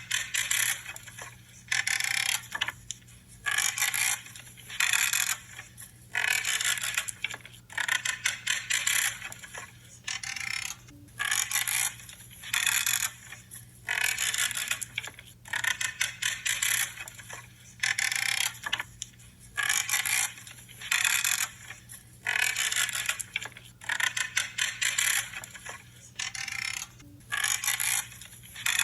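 Branches being cut with pruning shears, about one crunching, creaking cut a second.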